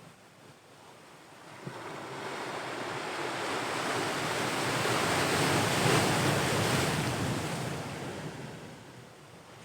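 Ocean waves: one surge of surf builds from a lull, is loudest about six seconds in, then washes back down to a hush near the end.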